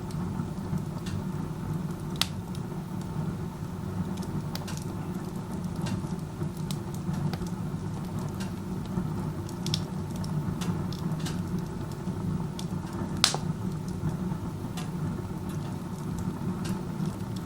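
Wood stove burning with its door open like a fireplace, the fire drawing hard up the chimney: a steady low rumble of the draft with scattered sharp crackles and pops from the burning wood. The draft is very strong, which the uploader takes as a sign of poor combustion efficiency.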